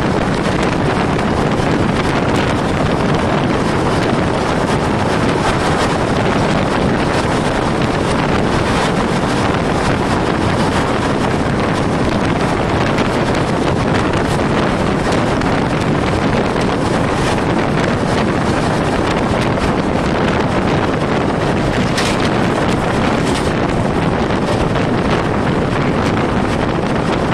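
Express passenger train running at about 130 km/h: a loud, steady noise of the train and its wind with no let-up, and wind buffeting the microphone.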